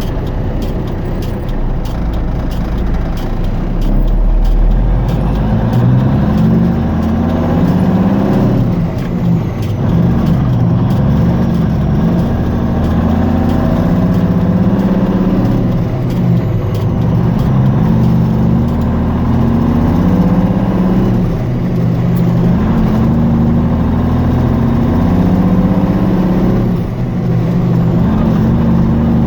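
Semi truck's diesel engine pulling under load through the gears, its pitch climbing and then dropping back at each upshift, about half a dozen times.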